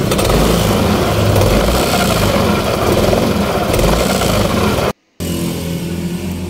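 2015 Yamaha NMAX scooter's engine and CVT running with a loud, rough noise from the CVT for about five seconds, then, after a sudden break, idling steadily. The noise is traced to a worn, loose roller housing and worn sliders in the CVT.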